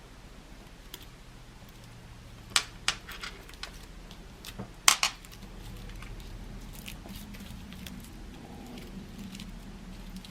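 A few sharp clicks and taps of small craft items being handled on a work table, several between about two and a half and four seconds in and a louder close pair about five seconds in.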